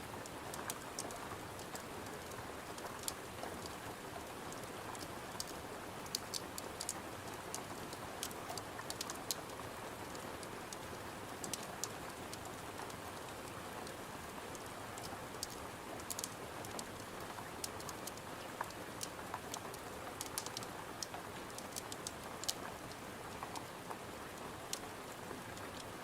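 Steady rain hiss with a crackling wood fire: frequent sharp pops and crackles scattered over the even rush of the rain.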